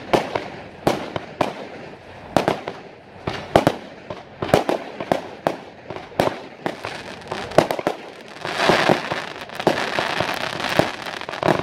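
Fireworks going off: a quick irregular string of sharp bangs, about two a second, as shells are fired and burst. From about eight seconds in, a thick spell of crackling from a glittering burst takes over.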